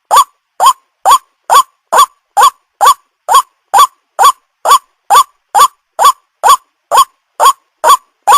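White-breasted waterhen lure call: a short note that rises in pitch, repeated evenly about twice a second.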